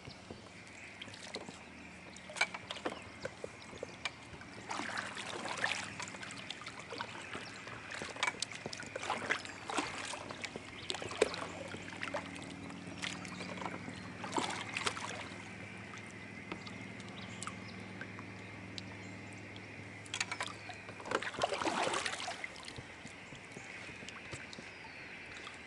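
A fishing kayak on the water: a few short splashing swells, the loudest near the end, and scattered knocks and clicks of gear against the hull, over a faint steady high drone.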